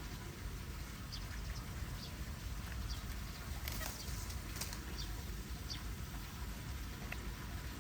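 Floodwater running steadily into a cleared storm drain, a low rushing noise, with short bird chirps scattered through and two sharp clicks near the middle.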